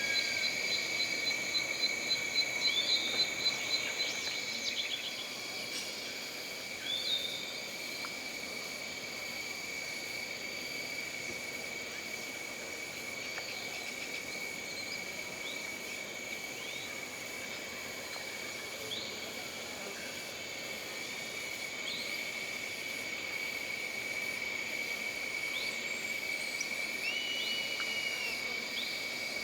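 Jungle ambience: insects trilling steadily at a high pitch, with a rapid pulsing call in the first few seconds and scattered short chirps from birds or frogs.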